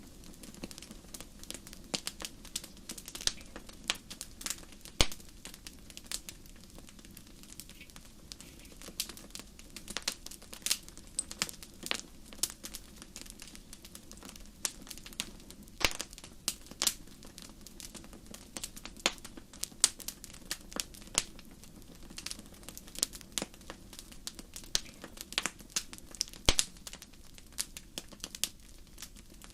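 Wood fire burning in a fireplace: irregular sharp crackles and pops, a few louder snaps, over a steady low rumble of the flames.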